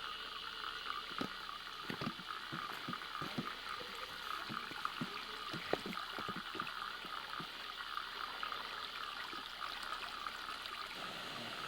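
Steady rush of a mountain stream's running water, with a run of soft low thumps through the first half or so.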